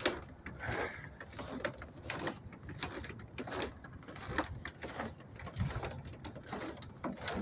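Blizzard wind buffeting the microphone, a low rumble with irregular crackling clicks throughout.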